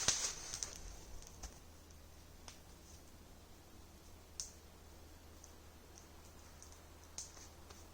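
Wood campfire crackling, with a cluster of crackles at the start and then single sharp pops every couple of seconds.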